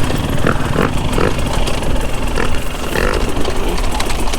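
Husqvarna TE 250i two-stroke enduro bike engine running steadily on a trail ride.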